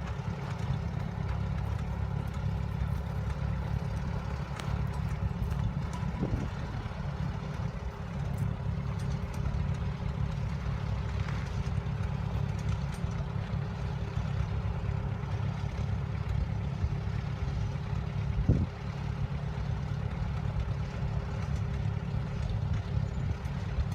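Farmall M-series tractor's four-cylinder engine running steadily with a low, even chug, with a single sharp knock about eighteen seconds in.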